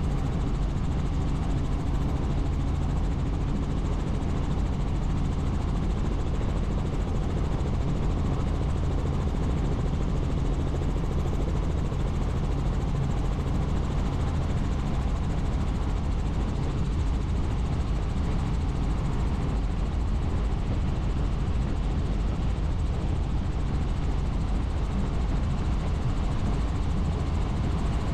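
Helicopter engine and rotor noise heard steadily from inside the cabin in flight, a constant low drone with a hum of even tones under a rushing hiss.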